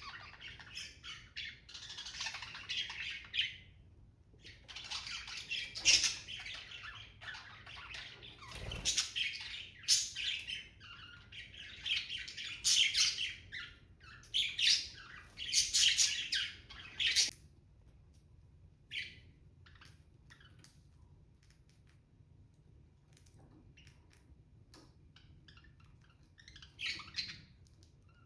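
Pet budgies chattering and squawking, dense and busy for the first two-thirds, then thinning to scattered short chirps with one brief burst near the end.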